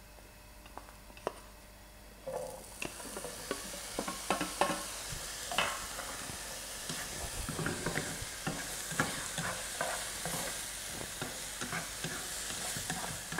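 Chopped pineapple frying in oil in a non-stick pan: the sizzle starts suddenly about two seconds in and then runs steadily, with frequent sharp taps of the utensil against the pan as the pieces are stirred.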